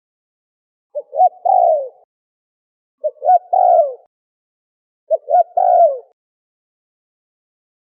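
Spotted dove (terkukur) cooing, three calls about two seconds apart, each two short notes followed by a longer falling coo.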